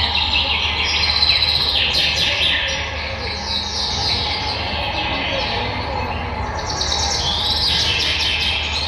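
Many overlapping bird chirps and calls, the recorded calls played by animatronic robotic birds, over a steady low hum.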